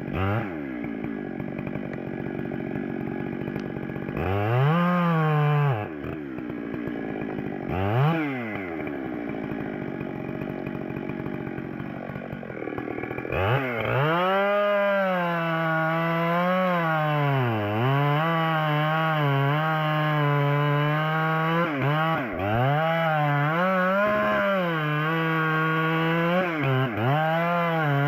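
Chainsaw running at low speed with two short throttle blips, then held at full throttle from about halfway in, its pitch sagging and recovering again and again as it cuts into wood.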